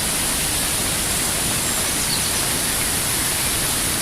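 Steady rushing of floodwater in a rambla, a normally dry stream bed running in spate after two or three days of rain: an even, unbroken hiss.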